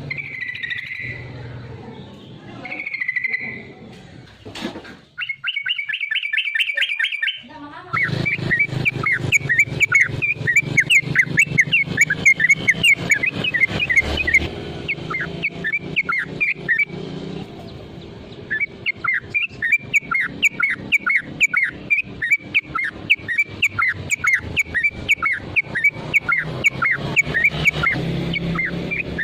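Yellow-vented bulbul (trucukan) singing in full, aggressive voice: a short fast trill, then a long run of quick repeated chirping notes, several a second, broken by one short pause.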